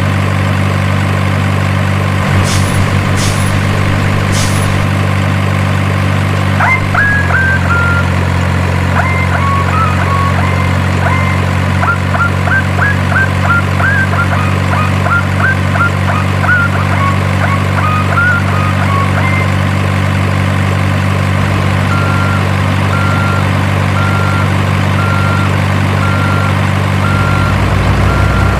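RC dump truck's simulated diesel engine sound running steadily, its note shifting about seven seconds in and rising near the end. Short high chirps sound through the middle. A reversing beeper starts about six seconds before the end and sounds about once a second.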